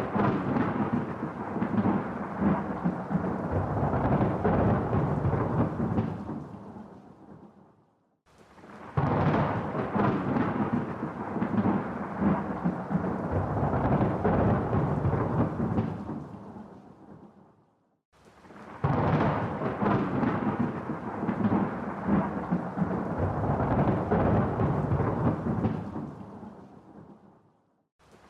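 Rolling thunder: three long peals about ten seconds apart. Each sets in suddenly, rumbles for six or seven seconds and fades to near silence before the next.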